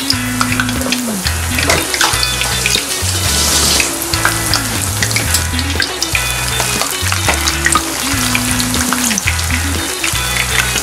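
Battered onion and carrot kakiage tempura frying in hot oil, a dense steady crackle. Background music with a repeating bass line plays underneath.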